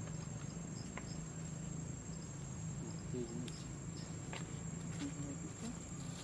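Steady high-pitched insect drone, like crickets or cicadas, over a low steady hum, with a few faint clicks and short soft chirps.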